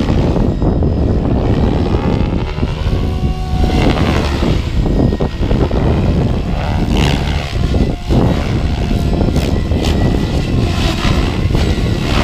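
Electric RC helicopter (SAB Kraken 700) in flight: the rotor and motor whine swells and its pitch glides up and down as it manoeuvres. Heavy wind buffeting on the microphone covers much of it.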